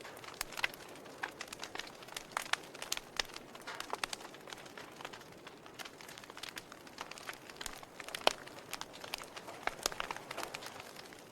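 Fire burning in a fireplace, crackling with irregular sharp pops over a soft hiss, one louder pop a little past the middle.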